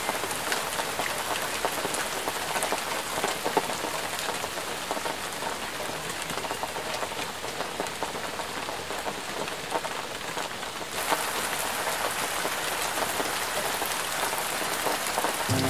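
Rain falling on a car's roof and windscreen, heard from inside the car: a steady hiss of rain with many small ticks of single drops, growing a little louder about eleven seconds in.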